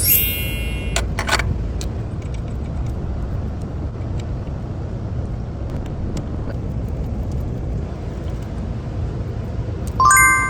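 A car engine running with a steady low rumble. A short, bright, chime-like ringing comes at the very start and again near the end, with a couple of sharp clicks about a second in.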